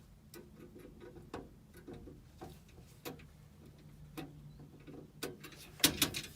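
Irregular small clicks and taps of a nut driver and screw as a new flame sensor is fitted into a gas furnace's burner, with a quicker, louder run of clicks near the end.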